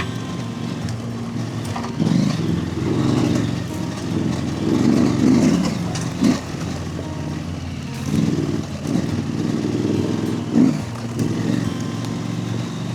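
Husqvarna Norden 901 parallel-twin engine running under way, its revs surging and easing several times.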